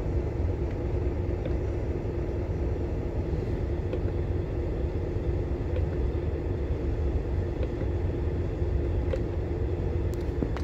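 Scania diesel engine running steadily at an even, unchanging speed.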